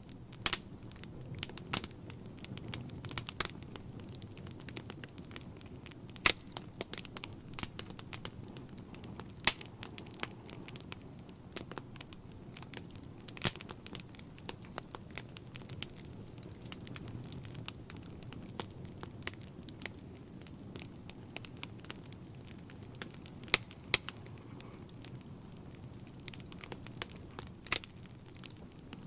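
Fireplace fire crackling, with frequent sharp irregular pops over a steady low rumble of the flames.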